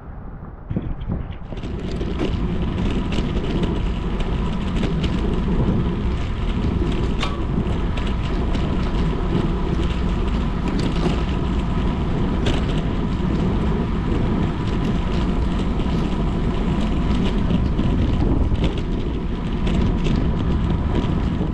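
Steady rush of wind and wet-road tyre noise on a bicycle-mounted microphone while riding, with scattered clicks and knocks; it swells up about a second and a half in.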